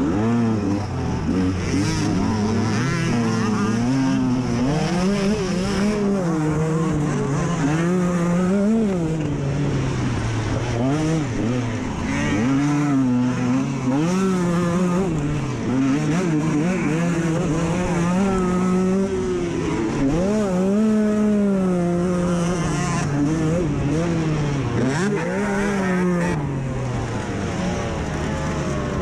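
Off-road dirt bike engine ridden hard on a motocross track, its pitch climbing and dropping again and again as the rider accelerates, shifts and backs off for corners.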